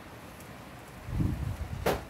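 A gust of wind buffeting the microphone with a low rumble about a second in, followed by a single sharp click near the end.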